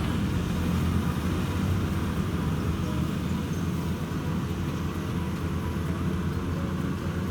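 Rice combine harvester's engine running steadily with a low, even drone.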